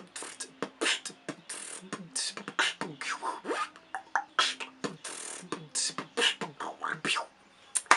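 A person beatboxing a quick pattern of mouth-made kick, hi-hat and snare sounds, using the inward 'peh' snare: the lips pushed forward and air sucked in through the middle while voicing 'peh'. A low hummed tone runs under parts of the pattern.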